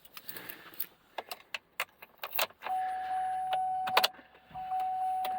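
Keys jangling and clicking as the key goes into the ignition of a 2007 Chevy Silverado Duramax pickup, then a steady high dashboard warning chime comes on about halfway through, with a short break near the end, while the driver's door is still open.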